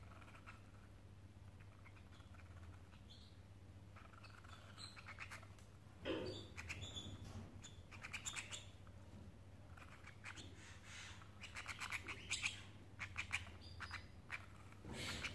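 Domestic canaries chirping and calling in short, sharp bursts with scattered clicks, sparse at first and much busier from about six seconds in.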